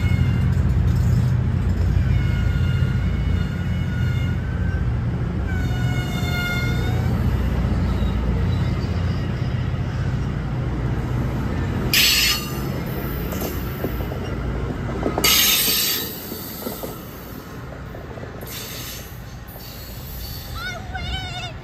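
MARC commuter train's bilevel passenger cars rolling past at low speed: a steady rumble with high wheel squeal at several moments, and two short bursts of hiss about twelve and fifteen seconds in. The rumble then drops away, leaving a quieter stretch with a wavering squeal near the end.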